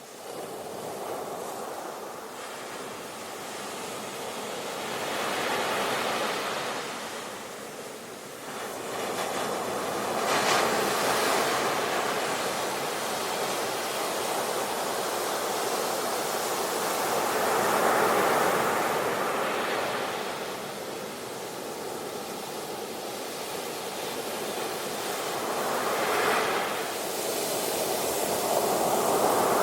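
Ocean waves breaking and washing onto a shore, a steady rush that swells and fades in about five surges.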